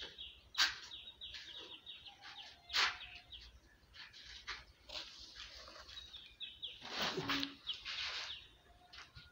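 Small birds chirping in quick runs of short, falling high chirps, twice, with a few sharp knocks in between.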